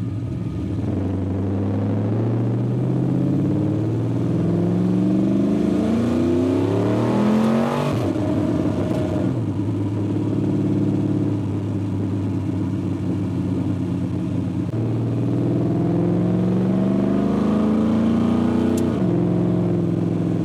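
LS-swapped Ford Ranger's 5.3-litre V8 heard from inside the cab while driving. It pulls with rising pitch for several seconds, and the pitch falls sharply about eight seconds in. It then runs steady, rises again, and falls once more near the end.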